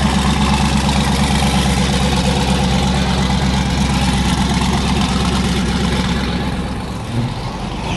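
A car engine idling loudly and steadily, easing off about seven seconds in.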